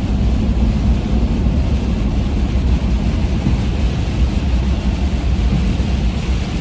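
Steady road and engine noise heard from inside a moving vehicle's cabin, a constant low rumble.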